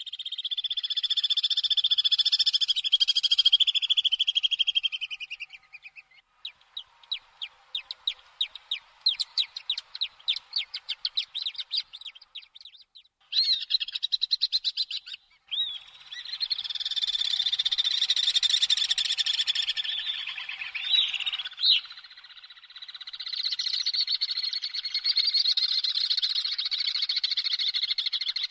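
Common swifts screaming: shrill, high trilled screams, several held for a few seconds each, with a stretch of quieter, broken rapid calls between them.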